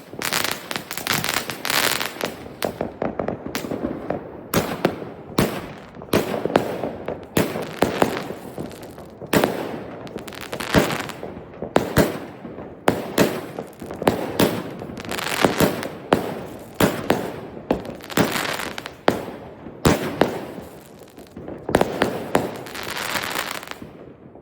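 Consumer New Year's fireworks going off: an irregular run of sharp bangs, often one or two a second, with crackling between them.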